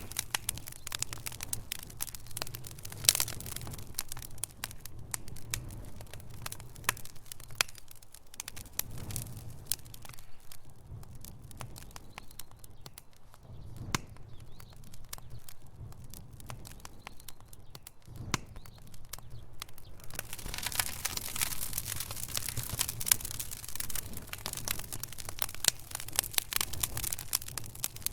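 Wood fire burning in a fireplace: logs crackling and popping with many sharp irregular snaps over a low rumble of the flames, the crackling thinning for a while in the middle and growing busier again in the last third.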